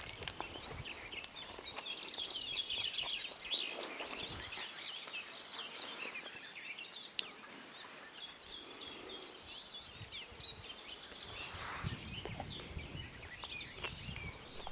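Small birds chirping and singing in quick high trills over faint outdoor background noise, busiest about two seconds in and again around ten seconds.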